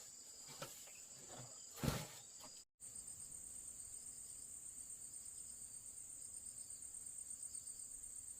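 Insects trilling steadily on one high note, with a few soft knocks and one louder thump about two seconds in. The sound cuts out for a moment, and then the trill returns, louder and with a fast pulse.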